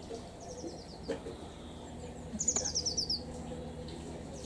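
A small songbird singing short, quick trills of notes that slide downward in pitch: a faint phrase about half a second in and a louder one at about two and a half seconds.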